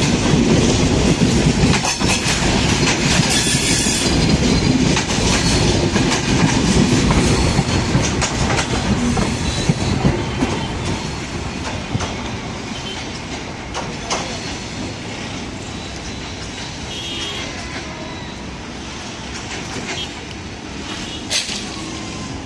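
Broad-gauge passenger train rolling past at a level crossing: the wheels clatter over the rail joints, with brief squeals from wheel on rail. It is loud for the first half, then fades gradually as the train moves away.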